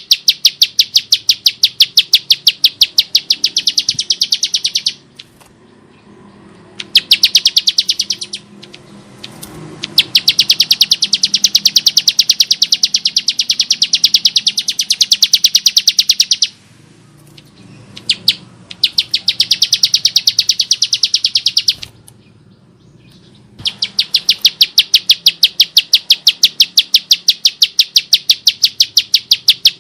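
Ciblek sawah (bar-winged prinia) calling in long, loud, rapid trains of sharp, high clicking notes, about eight a second, broken by brief pauses every few seconds.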